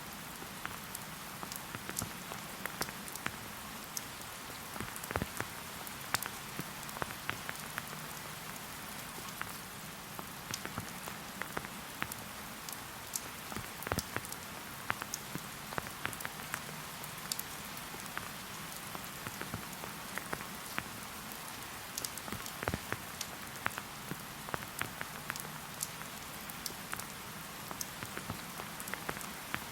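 Steady rain in a forest, an even patter with many separate drops striking close by.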